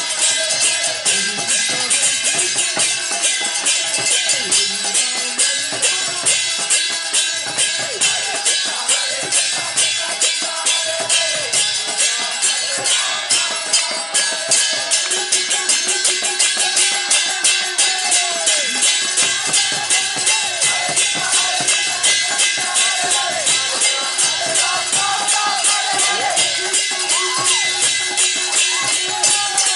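Devotional kirtan music: metal hand cymbals struck in a fast, steady beat with a drum, and a group of voices singing.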